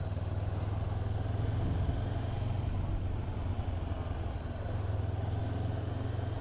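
Honda CB500F motorcycle's parallel-twin engine running steadily as a low drone, easing off slightly about four seconds in.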